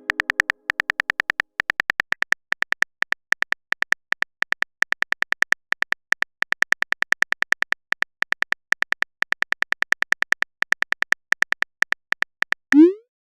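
Typing sound effect of a texting-story app: a rapid, slightly uneven run of short clicky beeps, about six or seven a second, as a message is typed out. Near the end a short rising swoosh plays, like a message-sent sound.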